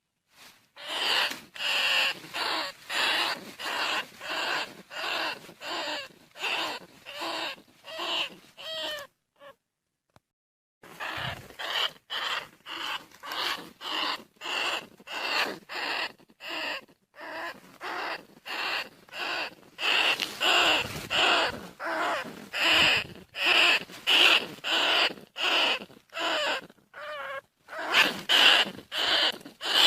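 Bandicoot rat calls: a rapid series of short, high squeaky calls repeated about twice a second, breaking off for a couple of seconds about nine seconds in and then resuming.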